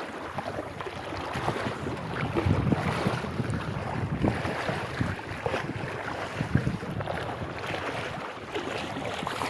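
Rushing, splashing river water with wind buffeting the microphone, rising and falling in gusts.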